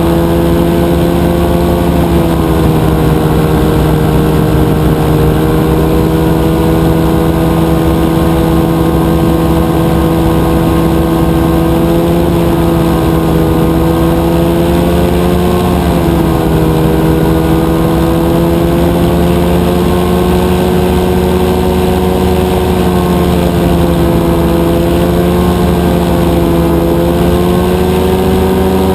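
Rotax 582 two-cylinder two-stroke engine of a powered parachute running steadily at cruise power, its pitch wavering slightly up and down.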